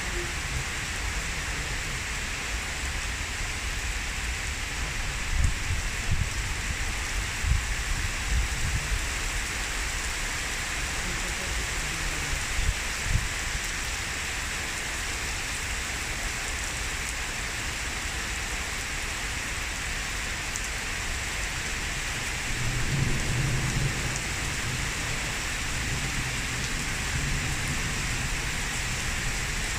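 Heavy downpour pouring and splashing steadily on surfaces, with low rumbles of thunder a few times, strongest about a third of the way in and again near the end.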